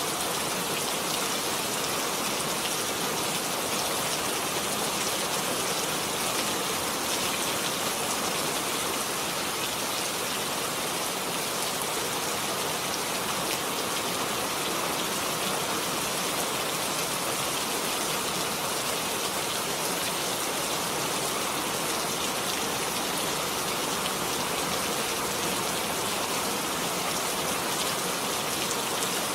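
Steady rain falling, an even hiss of drops on surfaces with no break or change.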